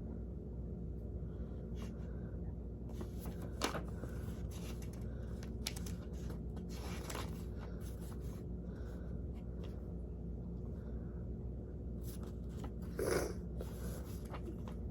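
Quiet room tone with a steady low hum, broken by a few faint rustles and clicks, one sharper click about three and a half seconds in and a short soft rustle near the end.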